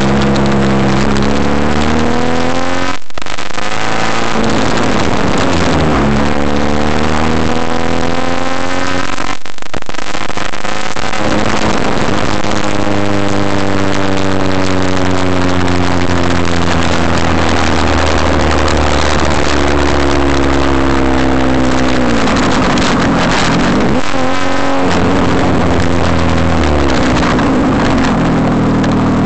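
Daewoo Lanos four-cylinder engine heard through a 52 mm stainless-steel exhaust while driving and accelerating through the gears. The note rises, cuts out briefly twice in the first ten seconds as gears change, then holds a steady drone. It drops away, with another short break, and climbs again near the end.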